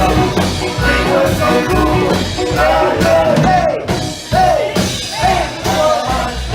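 Polka band playing, with a lead vocal line over a steady bass and drum beat.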